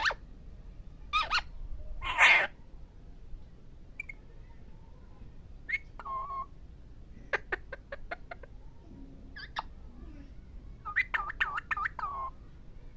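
Pet parrot calling: a few short calls in the first seconds, the loudest about two seconds in. Midway comes a quick run of clicks, and near the end a rapid string of wavering whistled notes.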